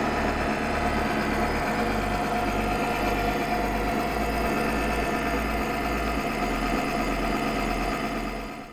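Kaneda Rika U65 benchtop three-roll mill running: a steady motor and roll-drive hum with a constant whine. It fades out near the end.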